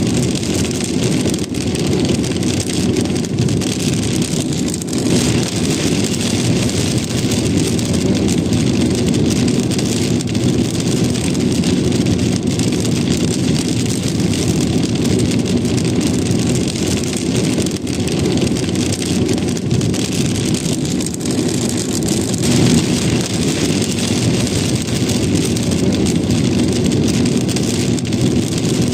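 Rain tapping on a car, over the steady low rumble of the car driving on the road.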